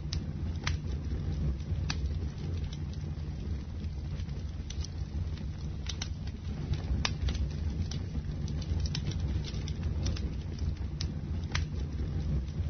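Bonfire burning with a steady low roar of flames and scattered sharp crackles and pops from the burning wood.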